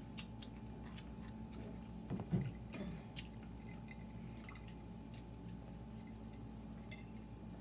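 Pizza being chewed, with scattered wet mouth clicks and smacks, and a brief low vocal sound about two seconds in.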